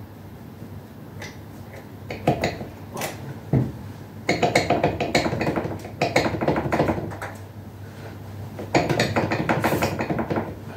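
Metal parts of a vintage drill press being handled and fitted together: a few separate knocks, then three bursts of rapid metallic clicking and rattling, each about a second and a half long.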